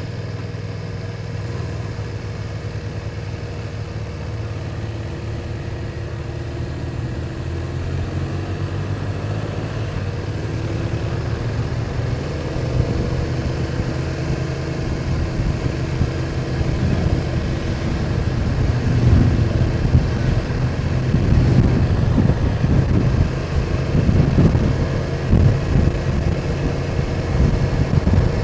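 BMW R1200 boxer-twin motorcycle engine running steadily at low road speed, with wind buffeting on the microphone growing stronger in the second half.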